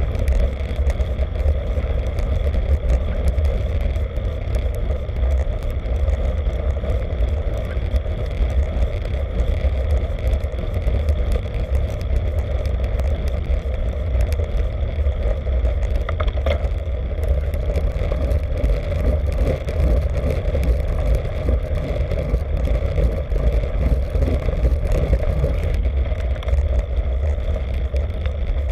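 Wind rushing over the microphone of a camera on a moving road bicycle, a steady loud low rumble that does not let up.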